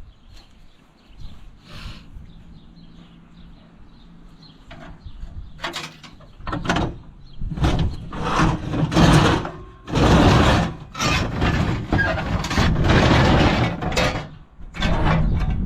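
Metal garden tractor parts being handled and moved about, quiet at first, then loud, irregular scraping and clattering from about six seconds in.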